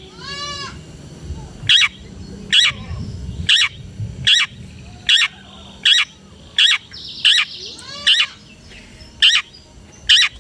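Long-tailed shrike (cendet) singing: a string of short, sharp, harsh notes repeated a little more than once a second, with a buzzy rasp about midway.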